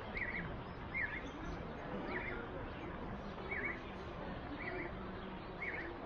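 A small bird calling repeatedly: six short, quick chirps about a second apart, over steady background noise.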